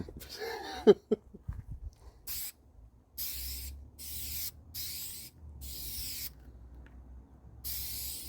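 Clear coat being sprayed onto a car body panel in about six short hissing bursts, each half a second to a second long, with pauses between passes. A sharp knock comes just before the spraying starts.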